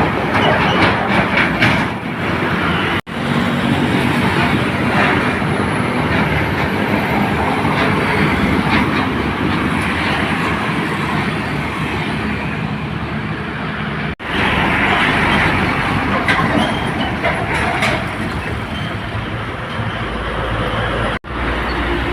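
Box trucks and road traffic driving past, a steady rush of engine and tyre noise. The sound breaks off abruptly three times, about 3, 14 and 21 seconds in, where one clip cuts to the next.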